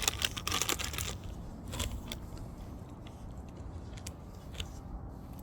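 Burning firewood crackling and popping: a dense run of crackles in the first second, then scattered single sharp pops.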